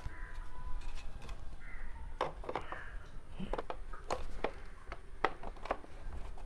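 Irregular light clicks and taps, about a dozen, as the emergency lamp's glass cover is fitted back onto its housing.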